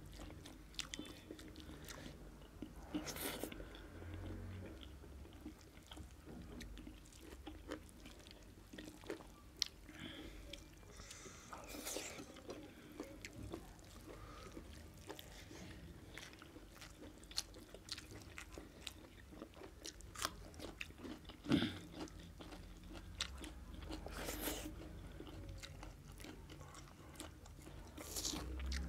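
Close-miked chewing and lip-smacking of a person eating mutton curry with rice, a steady run of small wet clicks with a few louder short noisy bursts along the way.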